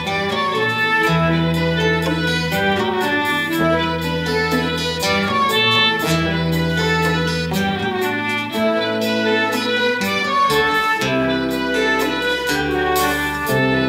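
Live band playing an instrumental passage: a violin melody over guitar and a held bass line, with a steady beat.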